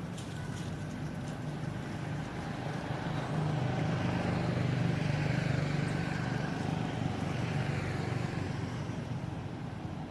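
A motor vehicle's engine hum passing by. It grows louder about three seconds in and fades away toward the end.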